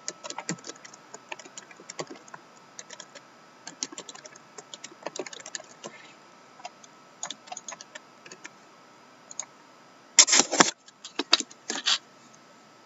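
Typing on a computer keyboard in irregular runs of clicks, entering teams into an online randomizer, with a louder clatter of several knocks about ten seconds in.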